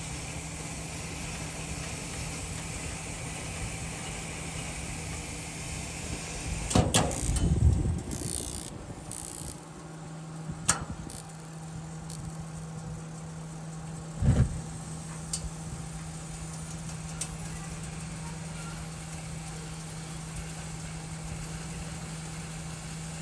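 Raypak gas pool heater running. There is a loud rough burst about seven seconds in, then a steady low hum from about ten seconds in, with a single knock a few seconds later. The heater is one with a flame rollout fault.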